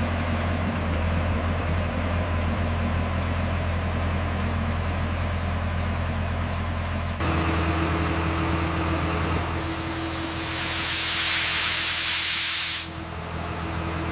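A steady low machine hum whose tone changes about seven seconds in, with a loud hiss starting about nine and a half seconds in and cutting off sharply about three seconds later.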